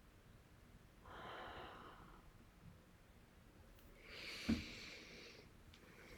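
Two faint breaths close to the microphone, about a second in and again near four seconds in, the second brighter and carrying a short, sharp thump.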